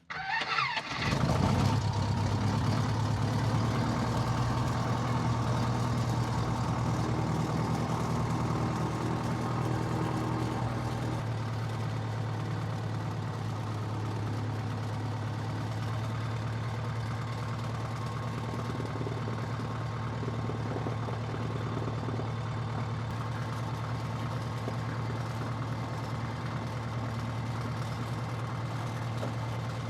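Piston engine of an 80-year-old light airplane starting: it fires and catches right away, runs up loudly for a second or two, then settles into a steady idle, with a slight change in its note about eleven seconds in.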